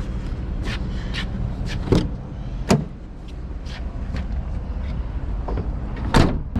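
An engine running steadily under a series of sharp metal clanks and knocks, three of them loud: about two seconds in, shortly after, and near the end.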